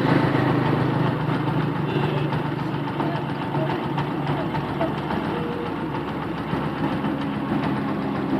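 A steady engine hum, as of a motor vehicle idling.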